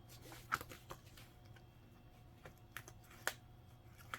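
Faint, scattered light clicks and taps of nickels being handled on a hard surface, five or six in all, over a low steady hum.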